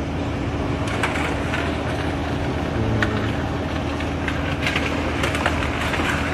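Steady street and vehicle noise with a constant hum, broken by a few short clicks and knocks.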